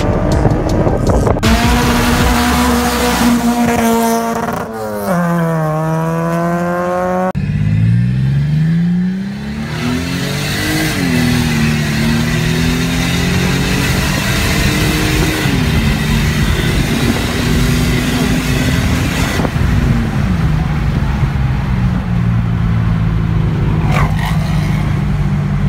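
Car engine revving hard: its pitch climbs and drops sharply at each gear change. In the second half it is heard from inside the cabin, and the pitch falls in steps as the car slows.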